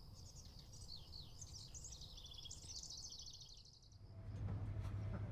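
Small birds singing in rapid, high chirping trills over a low background rumble. About four seconds in, the birdsong stops and a boat engine's steady low hum begins.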